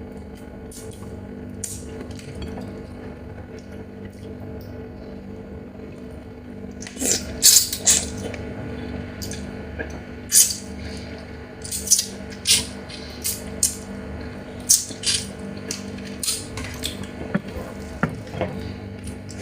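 Hard shell of a Chinese mitten crab being cracked and picked apart while eating: sharp cracks and clicks that start about seven seconds in and come in quick clusters, some crisp and loud.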